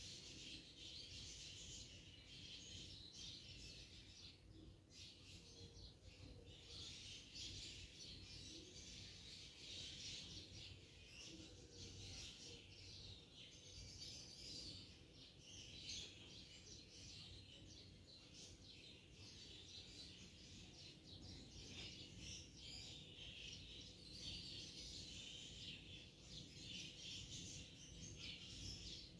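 Faint, continuous chirping of many birds.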